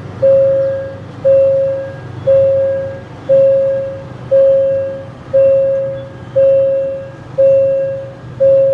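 Railway level-crossing warning bell ringing about once a second, each ding starting sharply and fading, with a low hum underneath.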